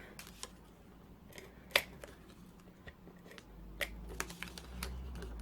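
Paper and card being handled as box tabs are folded and pressed down, with a few small sharp clicks and taps. A low hum comes in about three and a half seconds in.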